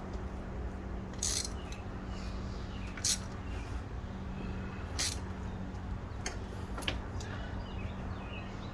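Socket wrench on an extension tightening a spark plug down into the cylinder head: a handful of separate clicks from the wrench, a second or two apart, over a steady low hum.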